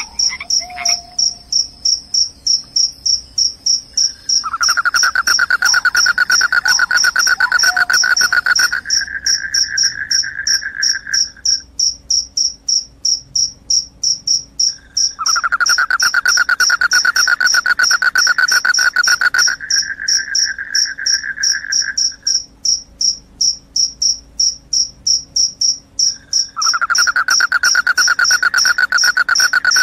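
Crickets chirping in a steady, rapid run of evenly spaced high chirps. A lower, continuous trill joins in three times, each time for about seven seconds, the first about four seconds in.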